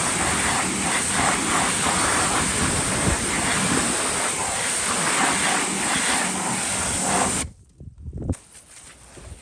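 Steady hissing spray of water washing the car, cutting off suddenly about seven and a half seconds in.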